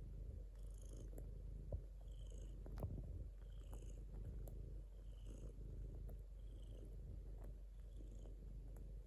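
Domestic cat purring steadily, close up, with a soft breathy hiss coming and going about once a second.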